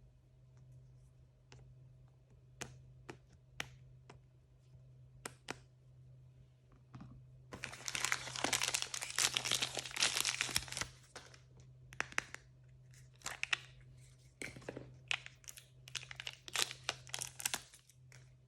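Blind-bag packaging being handled and torn open by hand. Scattered crinkles and clicks lead into a dense stretch of tearing and crinkling from about eight to eleven seconds in, then more crinkling follows.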